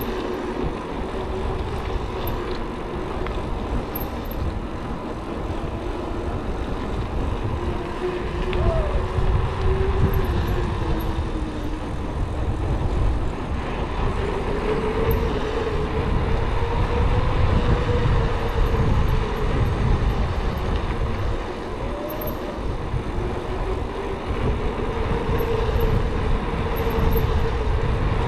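Wind rumbling on the microphone of a mountain bike in motion on a paved road, with a hum that drifts up and down in pitch as the speed changes.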